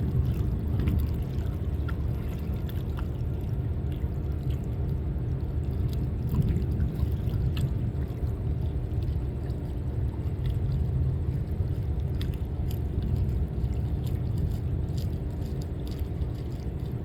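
Steady low rumble of a boat's motor, with water splashing and sloshing over it and a few small ticks.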